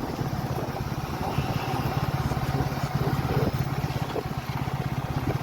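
Motorcycle engine running steadily at low revs, with a fast, even beat.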